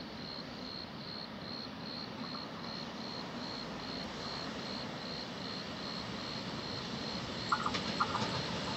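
Distant freight train hauled by an FS E652 electric locomotive approaching with a faint rumble that slowly grows louder, with a few short high squeaks near the end. Crickets chirp steadily, about three pulses a second.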